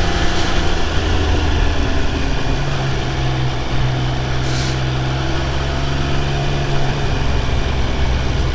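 Triumph Speed Triple 1200 RR's three-cylinder engine running at a steady road pace under the rider, its note lifting a little about two and a half seconds in and easing back near the end, over wind and road noise.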